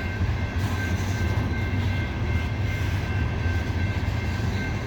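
Loaded coal hopper cars of a freight train rolling slowly past at a crawl: a steady low rumble with a faint, steady high-pitched ring.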